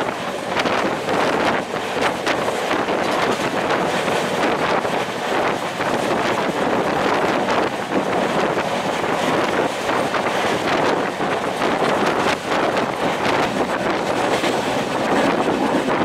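Steady rush of wind on the microphone aboard a moving passenger express train, over the noise of the coaches running on the track.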